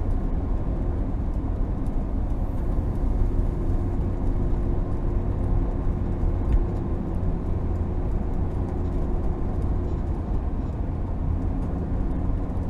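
Steady low road and engine rumble inside the cab of an RV driving at road speed.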